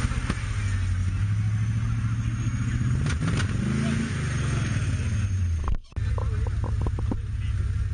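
Jeep off-roader's engine running, with one rev rising and falling about three to four seconds in, then settling back to a steady idle. The sound cuts out for an instant near six seconds.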